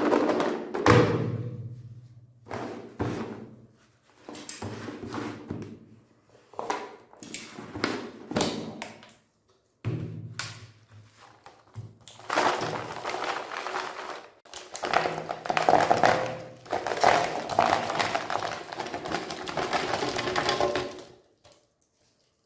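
Meat grinder crushing chocolate bars and ice cream cones: irregular thunks and knocks, then a longer stretch of dense crunching and grinding through most of the second half.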